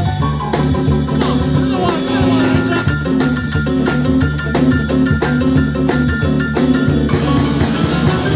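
Blues band playing an instrumental passage: electric guitar lines over bass and drum kit with a steady beat. The guitar slides between notes about one to three seconds in.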